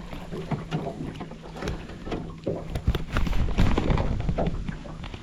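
Irregular knocks, clicks and splashing in a small fishing boat as a freshly landed yellowbelly is handled on board, over water and light wind noise.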